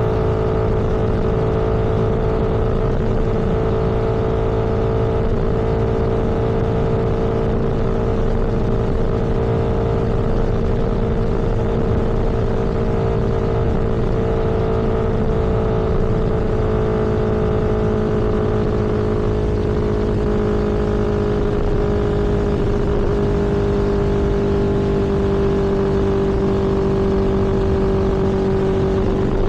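A vehicle cruising on the road: a steady engine hum with road noise, its pitch falling slowly.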